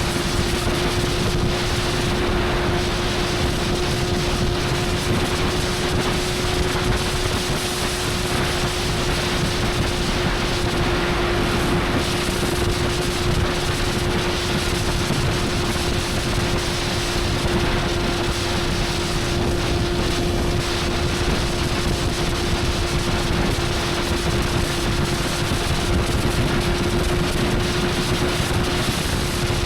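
Motorcycle engine running at a steady cruising speed, its note holding one pitch throughout, with heavy wind rush on the microphone.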